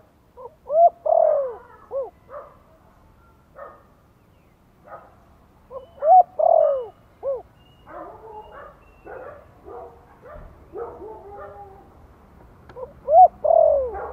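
Spotted dove cooing, three phrases of several arched notes with one longer note, about six seconds apart, in the 'Thổ' voice style that keepers use as a decoy call. Softer, shorter bird calls come between the second and third phrases.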